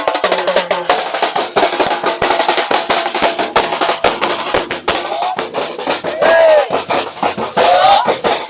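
Street-dance percussion band drumming a fast, dense beat with a clacking wood-block sound. In the last few seconds, pitched calls that rise and fall cut through it.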